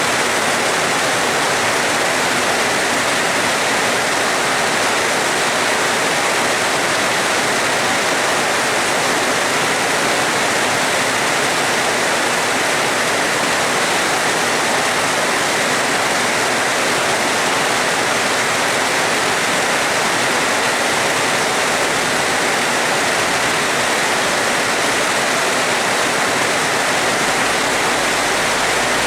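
Steady, dense rain hiss with no letup. A faint low rumble starts near the end.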